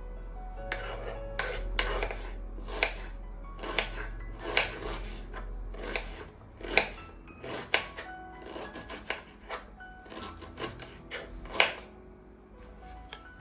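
Kitchen food preparation: an irregular series of short rasping strokes, about one or two a second, with soft background music.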